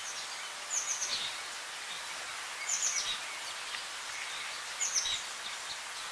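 A small bird chirping: three short bursts of high, quick, downward-sliding chirps, about two seconds apart, over a faint steady outdoor hiss.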